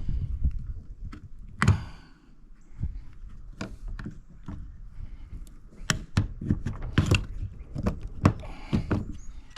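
Irregular metal knocks, clanks and taps as parts of a scrapped household appliance are pulled apart and handled by hand, some strikes ringing briefly.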